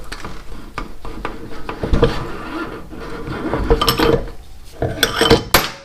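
Irregular metallic clinks and knocks of the front axle pin being worked out of a motorcycle's front fork and wheel hub. Some hits ring briefly, and a cluster of sharper hits comes near the end.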